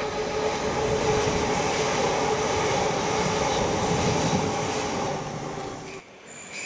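South Western Railway electric multiple-unit train passing close below, a loud steady rumble of wheels on rail with a steady hum running through it. About six seconds in the sound drops off suddenly, and a faint high-pitched wheel squeal from another approaching train starts near the end.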